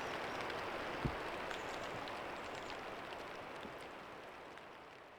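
Steady heavy rain falling, with scattered sharp drop ticks and one low thud about a second in, fading out gradually toward the end.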